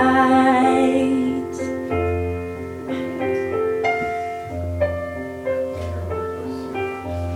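A female singing voice holds the last word of a line for about a second, then a piano plays slow sustained chords alone.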